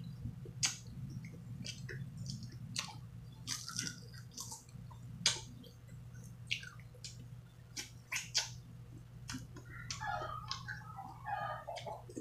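A person biting and chewing crisp, juicy slices of fresh apple mango: irregular wet crunches and mouth smacks over a steady low background hum.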